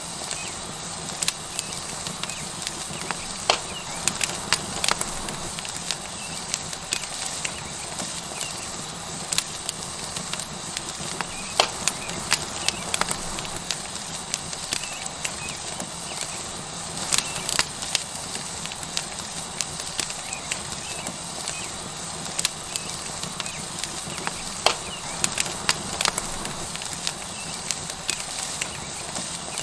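Wood fire crackling, with frequent sharp, irregular pops over a steady sizzle from a tomahawk steak searing on a hot rock.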